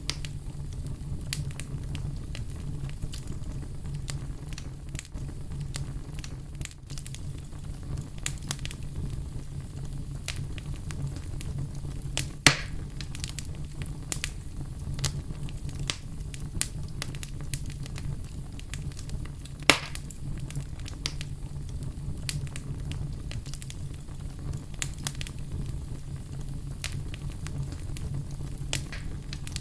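Fire crackling steadily: a low, even rumble of flames with frequent sharp pops and snaps, two of them louder, about twelve and twenty seconds in.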